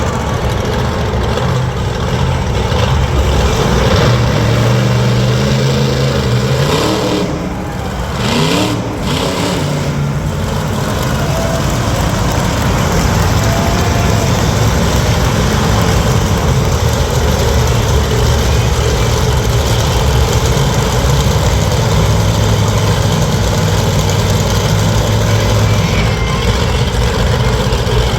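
Monster truck engine running loud, idling and revving, with a drop about seven seconds in followed by a rising rev.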